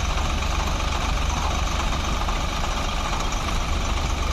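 Swaraj 744 tractor's three-cylinder diesel engine running steadily at a low, even speed.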